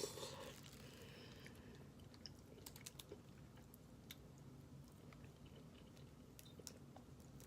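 A person quietly chewing food, with a few faint scattered clicks.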